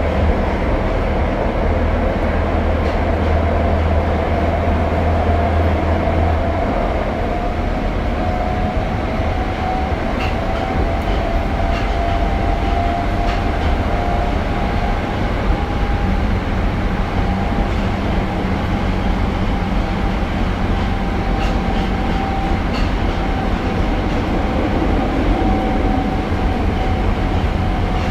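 Tokyo Metro Marunouchi Line 02 series subway train running between stations, heard from inside the car: a steady rumble of wheels on track under a motor whine that rises slightly in pitch over the first half, then holds steady. A deep low hum eases off about six seconds in.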